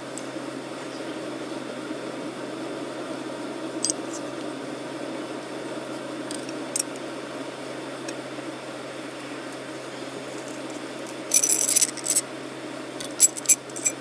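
Steady fan-like whir with a constant low hum, broken by a few sharp clicks and then loud clusters of ringing clicks and clinks about two-thirds of the way through and again near the end.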